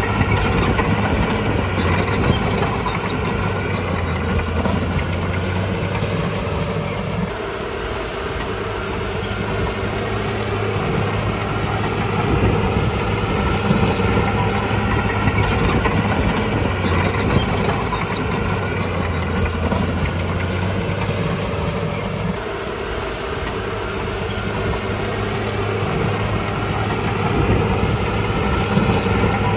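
Heavy diesel engine of earthmoving machinery running steadily. Its low drone eases off twice and then builds again as the load changes, with a few sharp metallic clanks.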